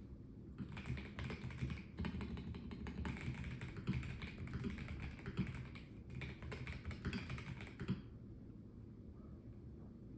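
Typing on a Melgeek Mojo84 mechanical keyboard with a plastic case: rapid runs of key clicks with two brief pauses, stopping about eight seconds in.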